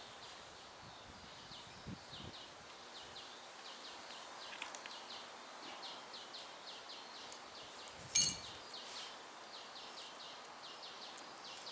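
Quiet outdoor ambience with a steady run of short, high chirps repeating a few times a second. Two faint knocks come about two seconds in, and a single sharp clack, the loudest thing, about eight seconds in.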